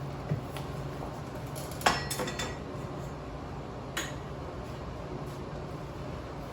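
A few light metal-on-metal clinks in a metal shop: a sharp one about two seconds in followed by a short rattle, and another around four seconds, over a low steady hum.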